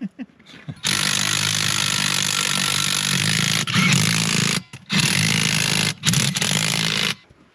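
Power tool run in several trigger pulls, stopping briefly a few times, as the wheel nuts are driven onto the tractor's rear hub.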